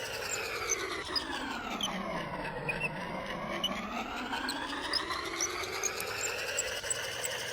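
Small electric motor whining, its pitch falling smoothly for about two and a half seconds as it slows, then rising again as it speeds back up.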